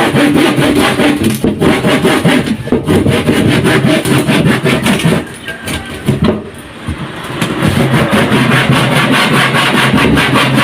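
Hand saw cutting through wood in quick back-and-forth strokes, loud and rasping. The strokes pause for a couple of seconds about halfway through, then start again.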